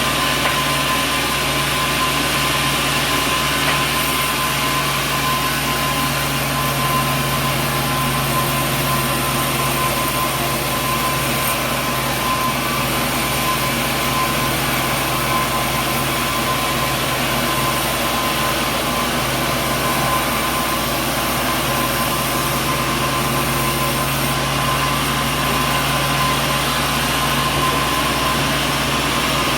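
Sawmill machinery running steadily: a constant mechanical drone with a fixed hum and a high whine, unchanging throughout.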